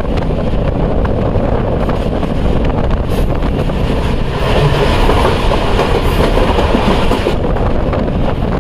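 Jaffar Express passenger coach running along the track, heard from an open window: a loud, steady running noise of wheels on rails.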